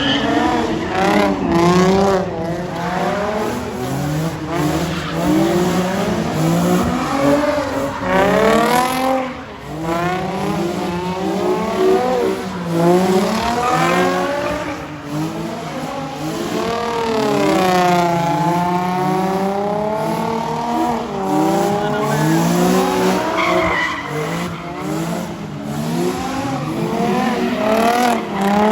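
A car drifting: the engine revs rise and fall again and again while the tyres squeal and skid.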